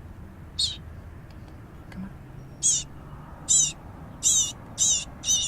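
Baby bird chirping: six short, high, wavering calls, coming closer together in the second half.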